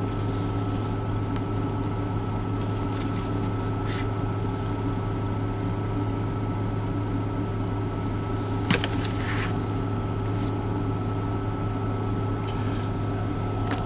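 Steady low mechanical hum inside a truck cab, with faint high whines over it. A single light click comes about nine seconds in.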